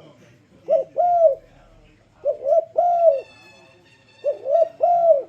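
Spotted dove cooing: three phrases about two seconds apart, each of two short coos followed by a longer arched coo. A faint higher chirping sounds in the middle.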